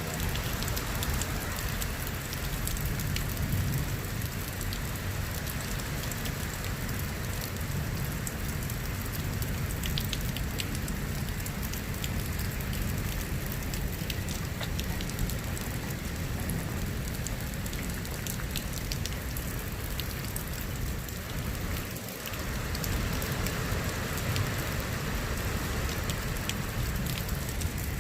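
Steady heavy rain from a severe thunderstorm, with many small sharp ticks of drops hitting nearby surfaces and a low rumble underneath. It dips briefly about three quarters of the way through.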